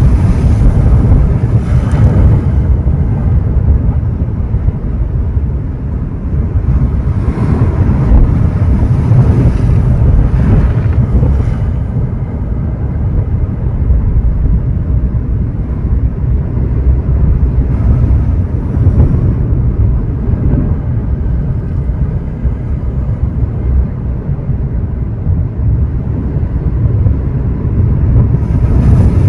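Sea waves washing onto the shore, each break a hissing surge that comes and goes several times, over a heavy low rumble of wind buffeting the microphone.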